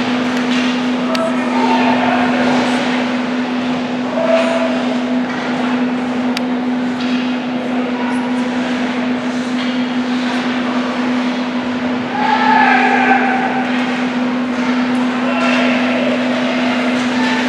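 Ice rink ambience during a youth hockey game: a steady low hum throughout, with distant voices calling out and a few sharp clicks, such as sticks or pucks striking.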